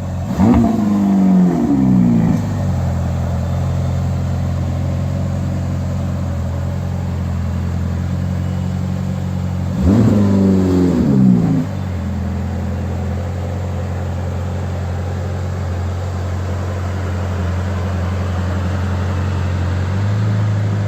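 Ferrari California V8 idling steadily. The throttle is blipped, the revs rising and falling, in the first couple of seconds and again about ten seconds in.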